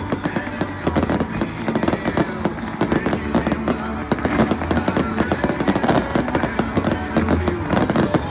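Fireworks display: a dense, continuous crackling and popping of many shells bursting, with a country song playing underneath.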